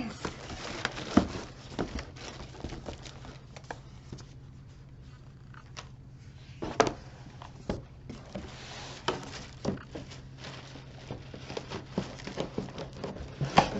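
Plastic packaging crinkling and rustling as new books are lifted out and handled, with irregular knocks and a few louder bumps as they are moved about. A faint steady low hum runs underneath.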